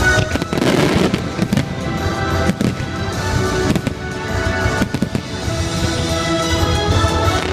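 Fireworks going off in a string of sharp bangs over loud music from a fireworks show's soundtrack.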